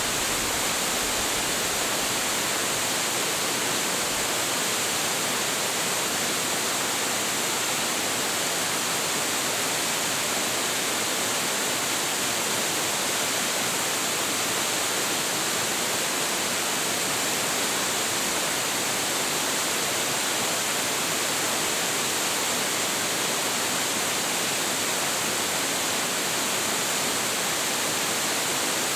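A large waterfall, about 26 m high and carrying a heavy flow, falling in a steady, unbroken rush of noise.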